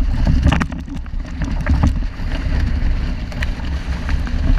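Strong wind buffeting the microphone in a loud, steady low rumble, with water rushing and splashing against the hull of a 470 sailing dinghy in short, irregular crackles.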